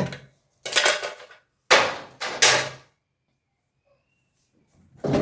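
Short clattering, rustling bursts of containers and kitchen items being handled: three in the first three seconds, a pause, then one more near the end.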